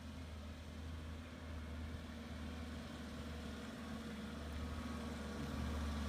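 A heavy vehicle's engine running with a steady low drone, growing gradually louder as it approaches.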